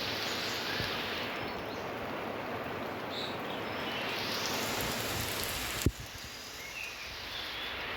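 Steady rain falling, an even hiss of drops. A single sharp click about six seconds in, after which the rain is a little quieter.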